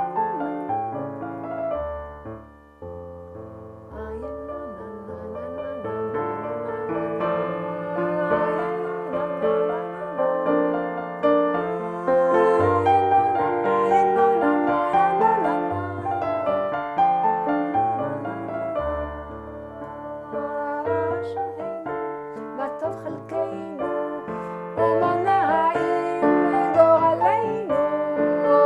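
Piano keyboard playing a wordless Chabad nigun melody, a gentle, inward-joy tune, with a melody in the upper notes over a moving bass line.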